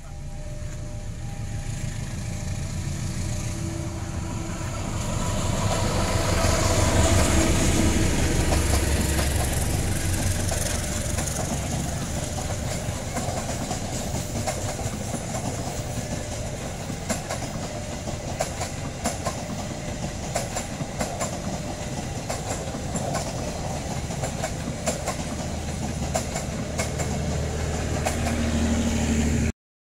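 CC201 diesel-electric locomotive (GE U18C) passing close by, its low engine rumble loudest about seven seconds in. Its passenger coaches then roll past with wheels clicking over the rail joints.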